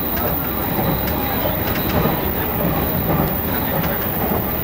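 Electric commuter train running at speed, a steady rolling and running noise heard from inside the front of the car, with a few faint clicks.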